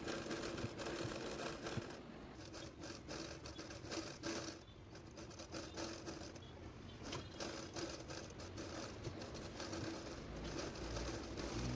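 Hand embroidery: needle and thread drawn through fabric in a hoop, making irregular scratchy rasps and small clicks over a faint steady hum.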